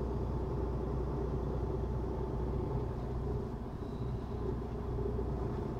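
Semi-truck diesel engine running steadily at low revs, heard from inside the cab during a slow manoeuvre: a constant low hum.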